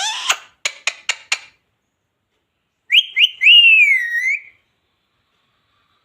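Indian ringneck parrot calling: a harsh squawk and four quick clipped chirps in the first second and a half, then about three seconds in a clear whistle of two short rising notes followed by a longer note that rises and dips.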